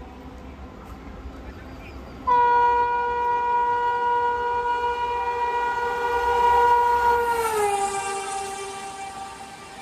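Indian Railways electric locomotive horn sounding one long steady blast over the rumble of an approaching train. About five seconds in, the horn's pitch drops as the train passes, and the train noise swells with it; the horn then fades as the train goes away.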